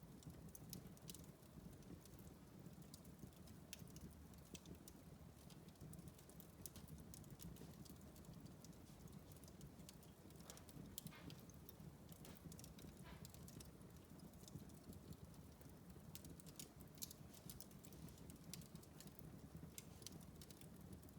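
Wood fire in a fireplace crackling faintly, with irregular sharp pops and snaps over a low steady background.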